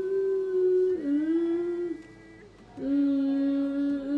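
A female singer holding long wordless notes that step down in pitch. Two notes of about a second each are followed, after a short break, by a lower note held for over two seconds.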